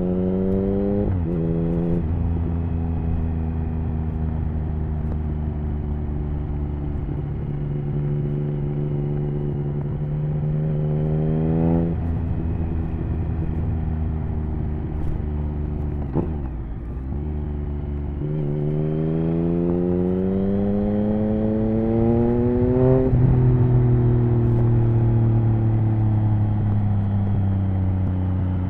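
Triumph Speed Triple 1050's three-cylinder engine through an HP Corse Hydroform exhaust, ridden under load. The revs climb and then drop sharply with gear changes about a second in, around the middle and again near the end. There is also a brief dip and recovery in revs partway through.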